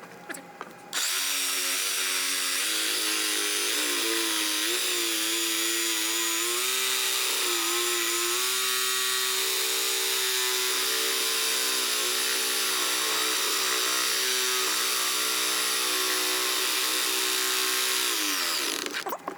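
Electric power tool cutting through metal to cut off a boat's old steering, which has a seized nut. The motor starts about a second in and runs steadily, its pitch wavering under load with a strong high hiss, then winds down with falling pitch near the end.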